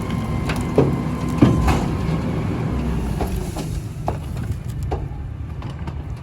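Garbage truck engine running steadily, with two sharp knocks about one and one and a half seconds in and a few lighter clicks after.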